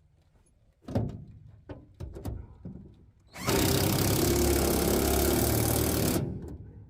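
A few sharp knocks of handled metal parts, then a power drill runs steadily for about three seconds, driving in bolts to remount a truck's headache rack.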